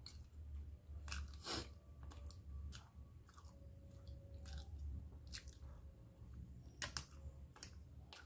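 A person chewing food, with scattered short sharp clicks, the loudest about seven seconds in.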